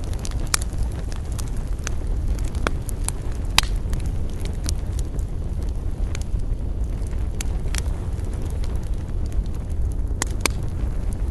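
Wood campfire crackling, with irregular sharp pops and snaps, the loudest about three and a half seconds in, over a steady low rumble of wind.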